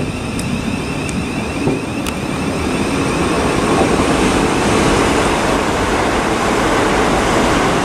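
Class 375 electric multiple unit running through the station at speed: a steady rush and rumble of wheels on rail that grows louder over the first few seconds, then holds.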